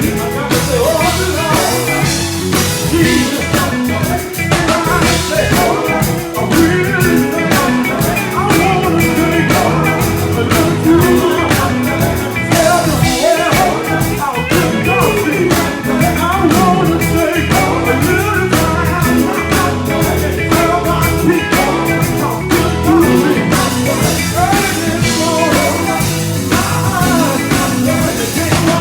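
Rock band performing a song: a lead vocal sung over electric guitar and a drum kit keeping a steady beat.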